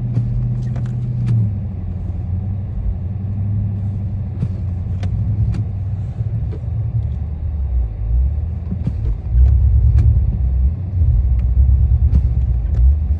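Dodge Charger Scat Pack's 392 HEMI V8 running under throttle as the car is driven hard into deep snow. The engine gets louder about nine and a half seconds in, with scattered sharp clicks throughout.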